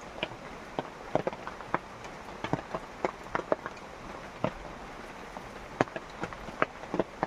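Rain falling steadily, a constant hiss with large drops landing irregularly as sharp ticks, several a second.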